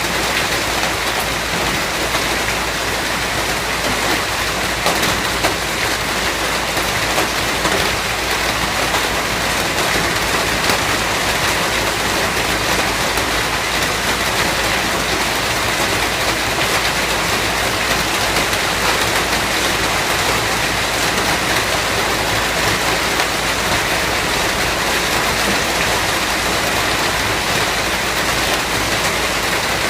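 Steady, heavy rain falling on a surface, a dense, even hiss made of many individual drops with a low rumble underneath.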